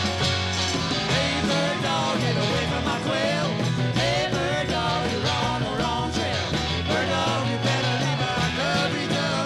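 A band playing a rock and roll song, with guitar, bass and singing.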